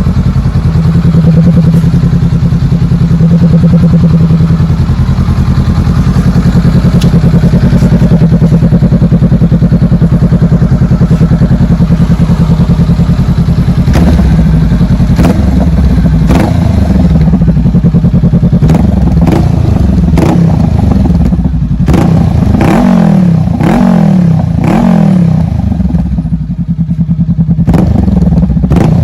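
Honda Rebel motorcycle with an LK Custom aftermarket muffler, idling steadily, then from about halfway through revved in a series of short throttle blips, the pitch rising and falling with each one.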